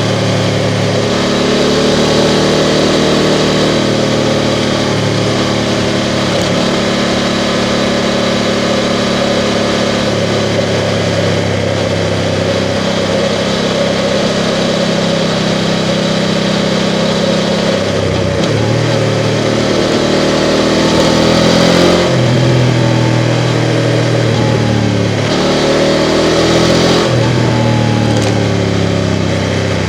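BMW F 750 GS parallel-twin motorcycle engine running under way, its pitch dropping and rising again several times in the second half as the rider changes gear and opens the throttle.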